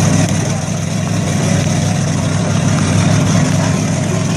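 A vehicle engine running steadily at idle, a constant low rumble.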